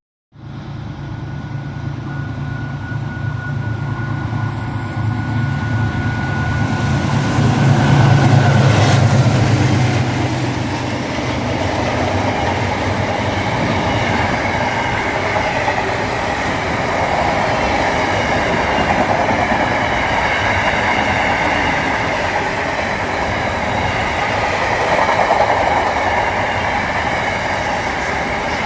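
A vehicle running, its steady rumble rising over the first several seconds and then holding, with a faint steady whine in the first part that fades out.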